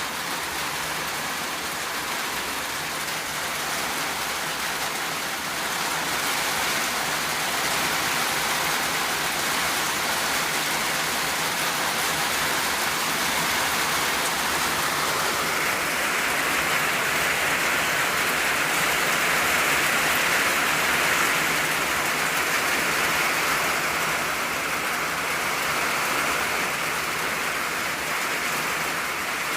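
Steady rain drumming on an old tin roof, a dense even patter that swells a little partway through.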